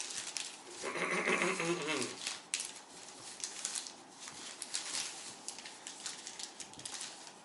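A parcel being unpacked by hand: packaging rustling and crinkling in quick irregular strokes. About a second in comes a short, wavering pitched sound lasting about a second, whose source is unclear.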